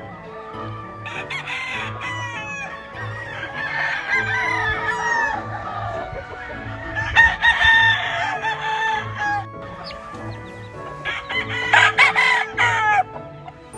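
Gamefowl roosters crowing, several crows overlapping in bouts about a second, seven seconds and twelve seconds in, over background music with a steady low beat.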